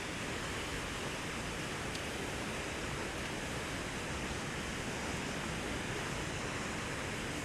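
Rushing water of a rocky stream and falls, a steady even roar.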